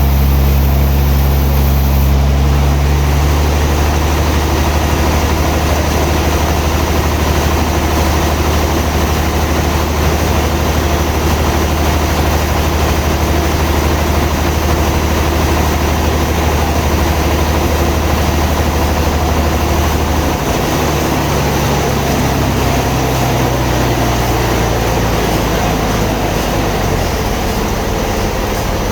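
Sawmill machinery running: a steady low engine drone with a broad hiss over it. The low drone changes in pitch about two-thirds of the way through.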